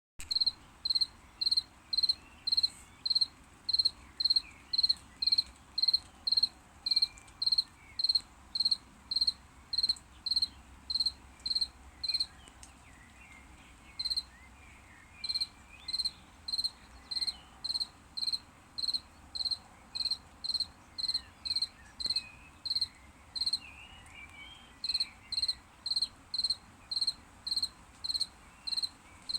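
A cricket chirping loudly and ringingly in a steady high-pitched rhythm of about two chirps a second, falling silent briefly a little before halfway and then resuming.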